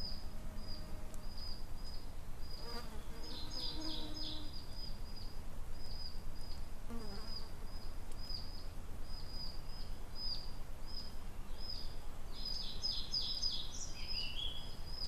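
Summer woodland birdsong over a steady low outdoor rumble. One bird repeats a short high chirp steadily, and a second bird breaks in twice with a brief burst of song, about three seconds in and again near the end.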